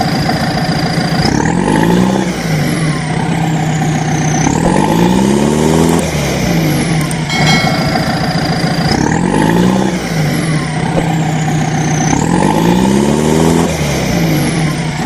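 Heavy vehicle engine revving up and down in repeated surges, a looped sound effect that repeats about every seven and a half seconds.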